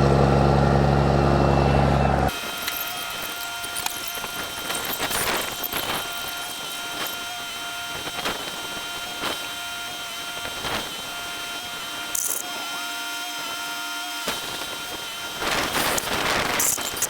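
Heavy diesel engine running loud and steady for about two seconds, then cut off abruptly. After that comes a much quieter steady hum with faint high whines and scattered clicks and knocks, growing louder and noisier near the end.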